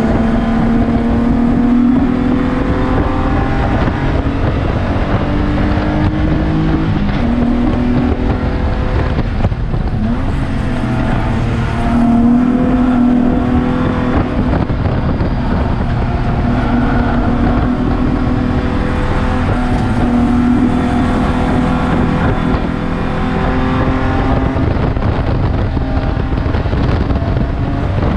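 BMW E36 Spec3 race car's inline-six engine at racing speed, heard from inside the stripped cabin. The pitch climbs through the revs and drops back at each gear change, over and over, with steady road and wind noise underneath.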